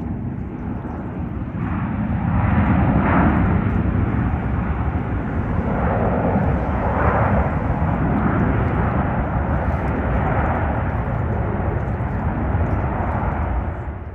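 Jet airliner engines passing: a loud, steady roar that swells about two seconds in and holds, then cuts off near the end.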